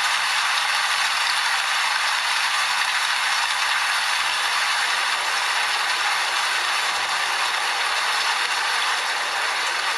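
Steady rain falling, a dense, even hiss of drops with little low rumble and no breaks.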